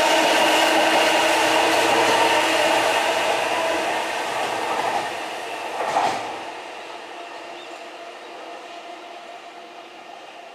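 JR East E001 Series Shikishima train running past, a steady rumble with a hum of several tones that fades after about four seconds as it moves away. A single sharp clack comes about six seconds in.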